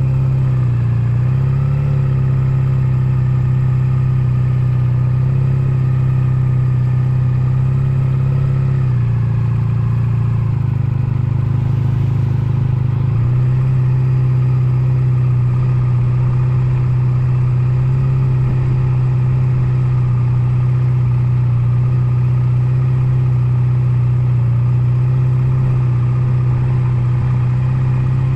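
Honda Nighthawk 250 motorcycle's air-cooled parallel-twin engine running at a steady pitch, with small dips and shifts in pitch about a second in and again near the middle.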